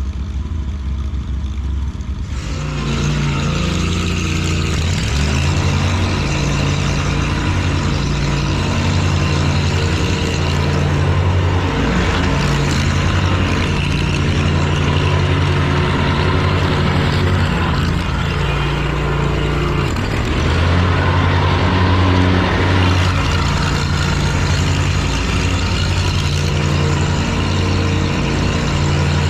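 Lawn mower engine running steadily under load, with a rougher, fuller noise joining about two seconds in.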